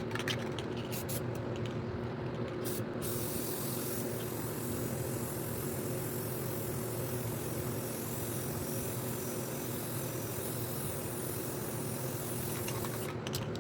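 Aerosol spray paint can spraying in one long, steady hiss that starts about three seconds in, with a few short clicks just before it.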